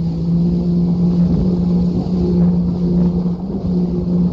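Jet ski engine running steadily at speed, its pitch stepping up slightly about a second and a half in.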